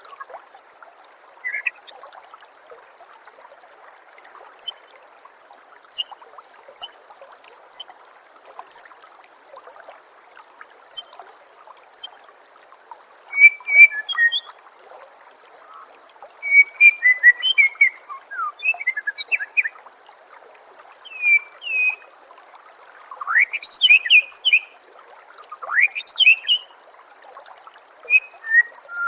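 White-rumped shama (murai batu) singing: a run of short, high chips about once a second, then from about halfway louder, varied phrases with rising sweeps. Under it, a steady trickle of running water.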